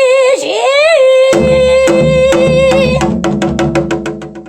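Pansori-style singing: a voice sings a short phrase and then holds one long steady note, with low accompaniment and struck percussion joining about a second and a half in. The percussion strokes quicken into a fast roll near the end.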